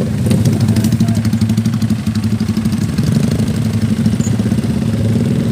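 Motorcycle fitted with an aftermarket racing exhaust, idling loudly with a rapid, steady pulsing beat.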